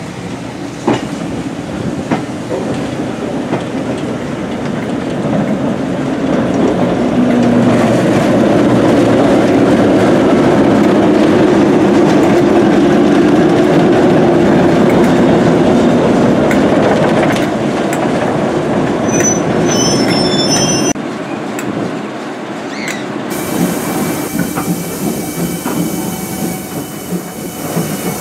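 Railway coach running on the rails, heard from on board: a steady rumble of wheels on track with clickety-clack and some wheel squeal. It grows louder after a few seconds, eases off later, and the sound changes abruptly about three-quarters of the way through.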